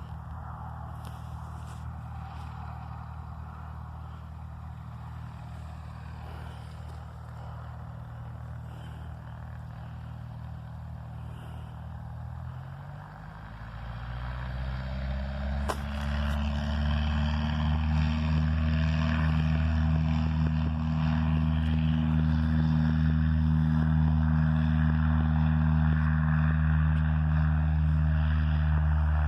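Small private plane's engine running steadily. About thirteen seconds in it rises in pitch and grows much louder as it is throttled up to full power for the takeoff, then holds loud and steady.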